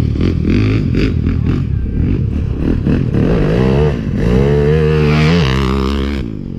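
Racing ride-on lawn mower engines running hard; about three seconds in, one engine climbs in pitch as it revs up, holds high for about a second, then drops away shortly before the end.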